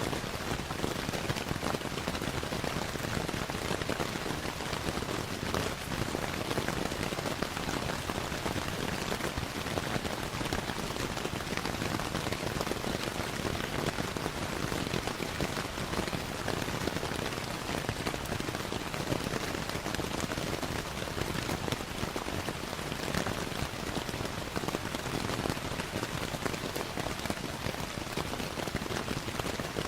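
Steady rainfall blended with a crackling fireplace: an even hiss of rain dotted with many small, fast ticks and pops.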